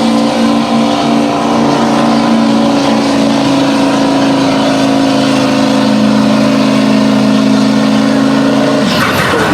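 Pulling pickup truck's engine running at high, steady revs, holding one pitch, then cutting off abruptly near the end.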